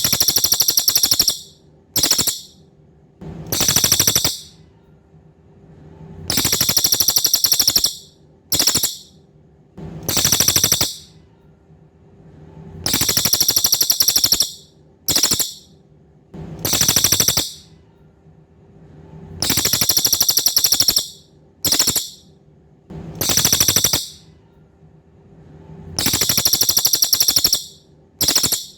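Cililin songbird singing a series of rapid, high trills. Each trill lasts half a second to a second and a half, and they come every one to two seconds, over a faint steady hum.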